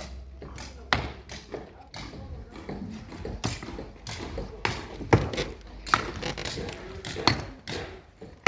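Hand tools striking hard material on a building site: irregular sharp knocks, about one a second, some with a short metallic ping.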